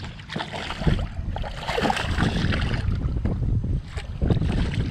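Wind buffeting the microphone in gusts, with water slapping against the hull of a small fishing boat and scattered light knocks.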